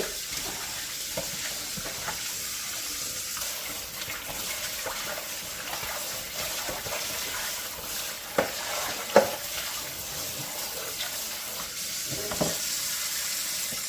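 Kitchen tap running steadily while raw chicken wings are rinsed under it, with a few brief knocks from handling. The water stops suddenly at the very end.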